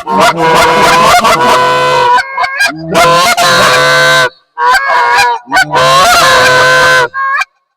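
Goose call blown by a hunter: loud, close honks and clucks in quick runs, broken by brief pauses about four seconds in and again near the end.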